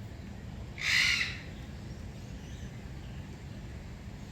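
One harsh bird call, about half a second long, about a second in, over steady low background noise.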